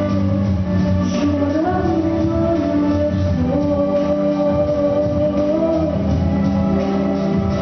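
A female solo voice singing a song in long, held notes that glide from one to the next, over a backing track.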